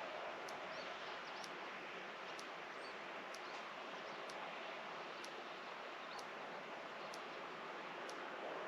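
Steady outdoor background hiss with a few faint bird chirps, and a faint high tick repeating about once a second.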